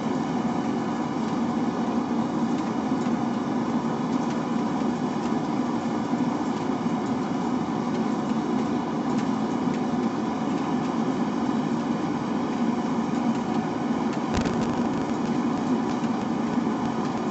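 Forge running with a steady roar and no hammering, and one short knock about fourteen seconds in.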